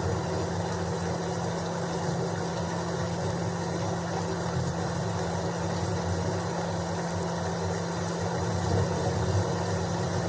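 Steady storm ambience: a constant low rumble with a rain-like hiss above it and a faint steady hum, with no distinct thunderclaps.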